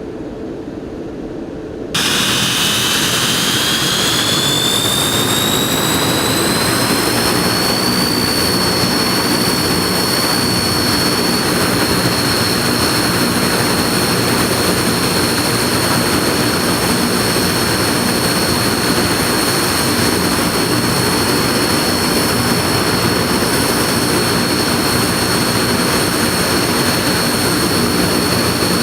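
Turboprop engines of a Shaanxi Y-8F-200W four-engine transport aircraft starting up. The level jumps suddenly about two seconds in, then a high turbine whine climbs in pitch for several seconds and holds steady over a loud, even rush of engine noise.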